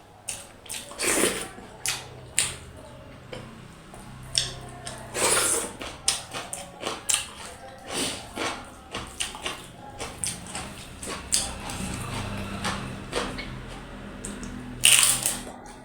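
Close-up mukbang eating sounds: wet chewing, lip smacks and slurps while eating dhido, with a few louder wet smacks about a second in, around five seconds in and near the end. Faint music plays in the background.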